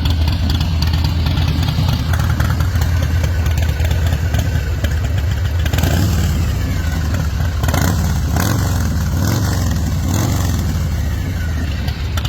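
2004 American IronHorse Texas Chopper's V-twin engine running loud and steady at idle, with a rapid low pulsing exhaust beat.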